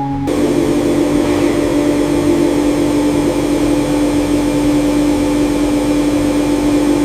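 A small motor running steadily, with a constant hum and a hiss, starting just after the beginning and holding unchanged.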